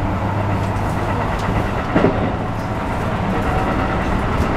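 Interior running noise of a Keikyu New 1000 series electric train under way: a steady low rumble of wheels on rail and traction equipment, with a single sharp knock about two seconds in.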